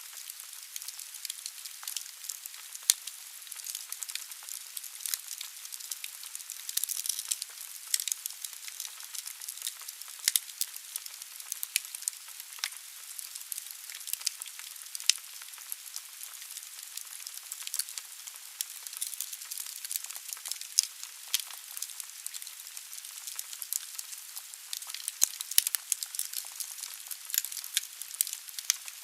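Wood fire burning in a fireplace: a steady hiss with dense, irregular crackling and occasional sharper pops from the burning logs.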